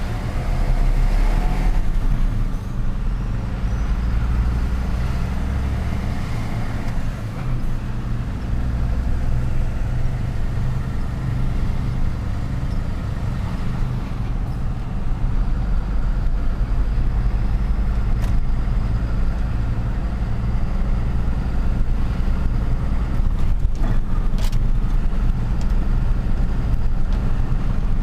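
A truck's engine running steadily with a deep rumble and road noise while driving, with a few sharp clicks or knocks partway through.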